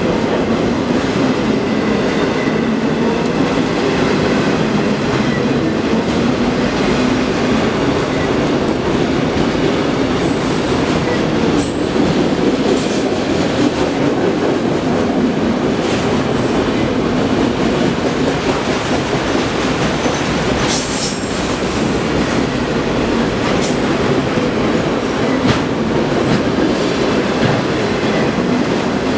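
Autorack freight cars passing close by at speed: a loud, steady rumble of steel wheels on rail. High-pitched wheel squeals come and go from about a third of the way through to about three quarters of the way.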